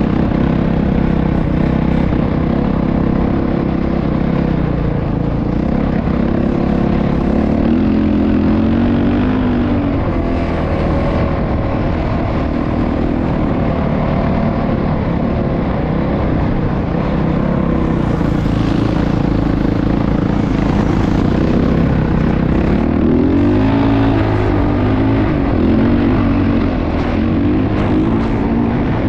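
Motocross bike engines running loud and steady, their pitch rising and falling with the throttle.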